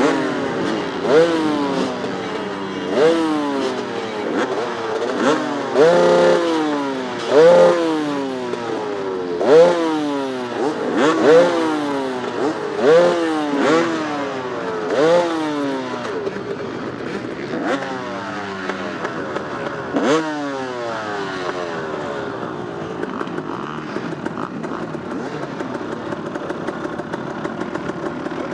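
Off-road dirt bike engine accelerating hard, its pitch rising and dropping over and over as it is revved out and shifted, for about the first sixteen seconds, then running steadier and somewhat quieter.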